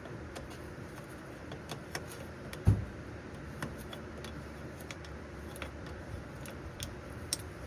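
Metal parts and tools being handled: scattered light metallic clicks and clinks, with one heavy dull knock about two and a half seconds in.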